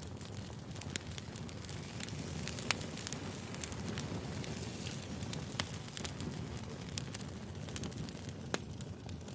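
Firewood burning: a steady low crackle with scattered sharp pops, the loudest a little under three seconds in and again about five and a half seconds in.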